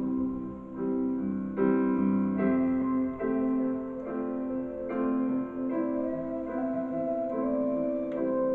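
Piano or keyboard music playing slow sustained chords, part of a hymn.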